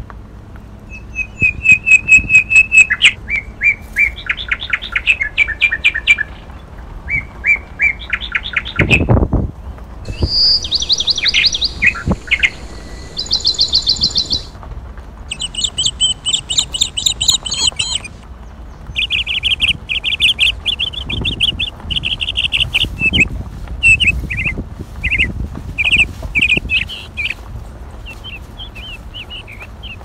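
Several songbirds singing, in bursts of fast repeated high chirps and trills of different patterns, one phrase after another. A low thump about nine seconds in.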